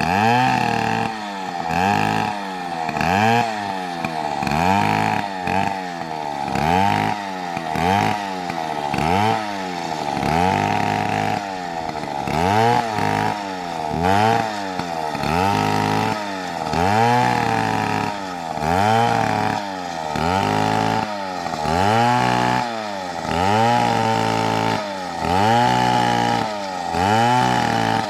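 Chainsaw engine revving up and falling back over and over, about once every one and a half seconds.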